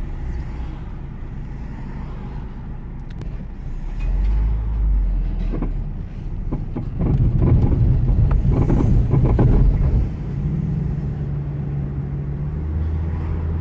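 2010 Ford Focus with its 2.0-litre inline-four, driving: steady engine hum and road noise. The engine note shifts in steps several times and is loudest from about seven to ten seconds in.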